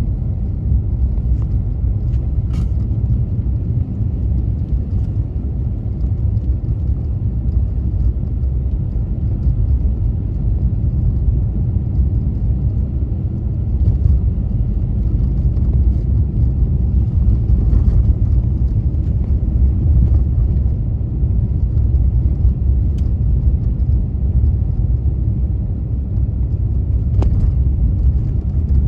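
Steady low rumble of a car driving on snow-covered roads: engine and tyre noise. A couple of faint ticks come about two seconds in and near the end.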